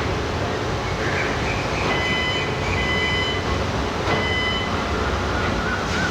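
A vehicle running on the road, giving a steady low rumble of engine and road noise. Brief high whining tones come in and out in the middle.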